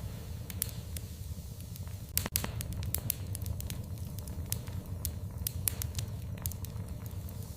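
Wood fire in a fireplace crackling, with irregular sharp pops and a loud cluster of pops about two seconds in, over a steady low rumble of the flames.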